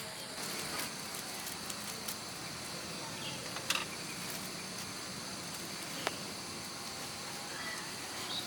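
Insects chirping in a steady high drone over outdoor background noise, with a couple of short sharp clicks, one near the middle and one about six seconds in.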